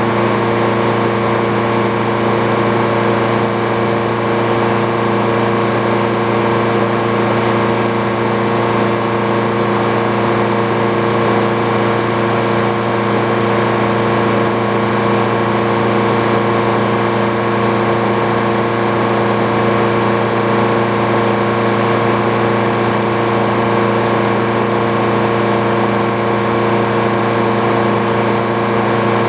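Engine driving an old Frick sawmill, running at a steady speed with no change in pitch or load.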